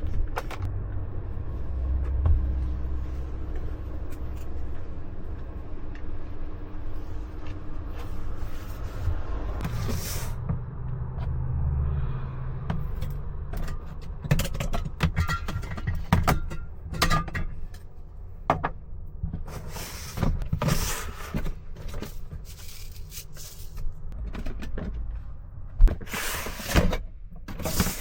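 A low, steady rumble like a vehicle engine running for about the first twelve seconds, then a long series of separate knocks, clicks and clatters, like doors and gear being handled, with one sharp knock near the end the loudest.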